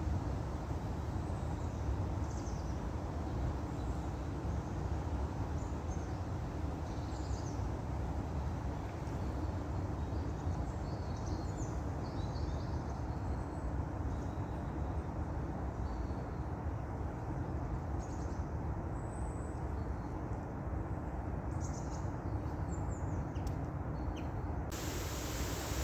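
Scattered short bird chirps over a steady low outdoor rumble. About a second before the end the sound switches abruptly to a brighter, even hiss.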